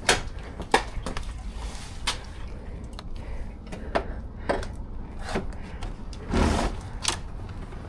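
Scattered clicks and knocks, with a louder short scrape or rustle about six and a half seconds in, as a motorcycle with a dead engine is wheeled by hand into its parking spot.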